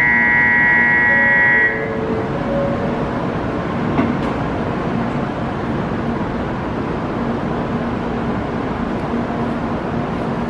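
N700-series Shinkansen pulling out of the station: steady running noise and hum from the passing train. A loud steady electronic tone sounds for about the first two seconds, then stops.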